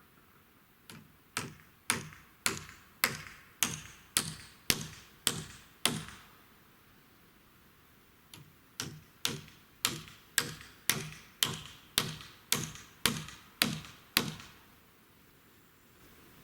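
Hammer blows on wood in two runs of about ten to twelve strikes each, roughly two a second, with a short pause between the runs, as when driving nails.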